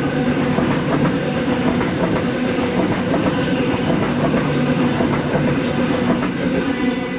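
Sydney Trains A set (Waratah) electric multiple unit passing through the station: loud steady wheel and rail noise with a steady hum underneath, easing a little near the end.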